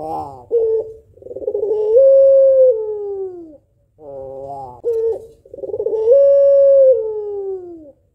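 White female Barbary dove (puter pelung) cooing twice. Each call opens with a short rough burst, then draws out into a long held note that slides down in pitch at the end.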